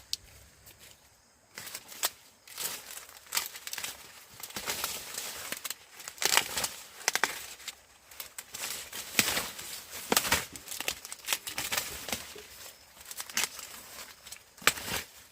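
Dry corn leaves and husks crackling, rustling and tearing in irregular snaps and rustles, as ears of corn are picked and handled.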